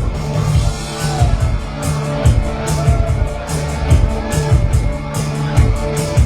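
Live band playing a 1980s new wave song, with a steady drum beat and a bass line under the rest of the mix.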